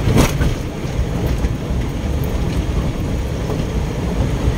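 Steady road and engine noise inside a moving car, with a short burst of noise right at the start.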